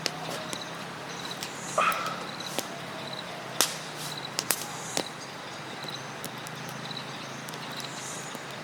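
Campfire crackling, with sharp irregular pops over a steady hiss. A faint high chirp repeats a little more than once a second behind it.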